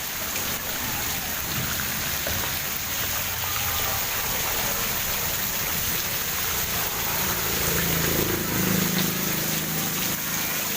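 Heavy tropical rain pouring down steadily, a dense hiss of rain on the ground and standing floodwater. A low rumble swells in the last few seconds.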